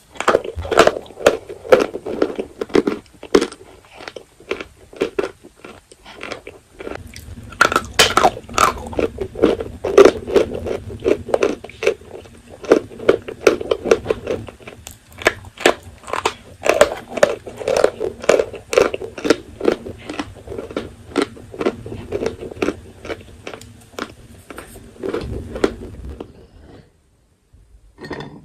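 Dry edible chalk being bitten and chewed: a steady run of crisp crunches, several a second, that stops a little before the end.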